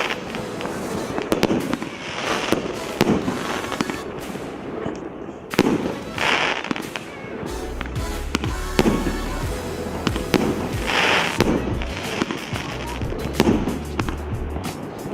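A 25-shot, 1.25-inch firework cake firing, shot after shot about every second or two, each launch followed by a bursting break and crackle.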